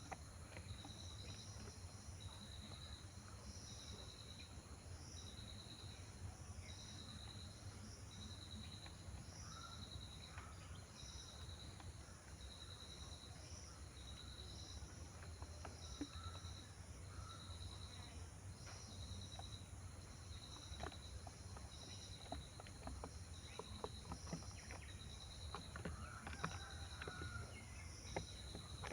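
Faint, regular chirping from an insect, a short trilled pulse repeating about once a second, over a steady low hum, with scattered light clicks and taps.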